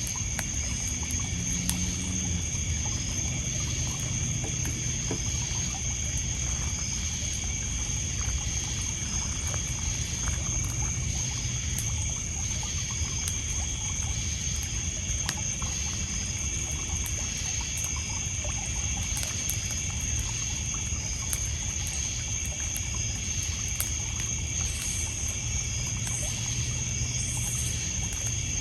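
Night-time lakeside ambience: crickets and other insects trilling steadily, with small waves lapping and trickling on a pebble beach and scattered crackles from a wood bonfire.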